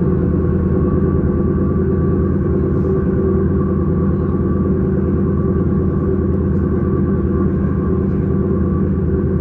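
S-Bahn electric train running at steady speed: a continuous rumble with a constant hum that does not change in pitch.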